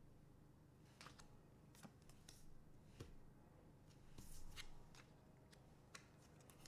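Trading cards being handled: faint flicks, taps and short sliding swishes as cards are sorted through by hand.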